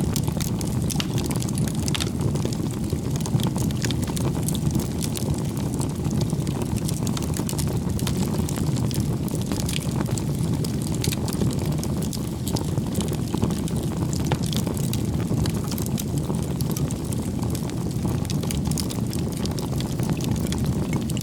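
Campfire burning: a steady low roar of flames with frequent small crackles and pops scattered throughout.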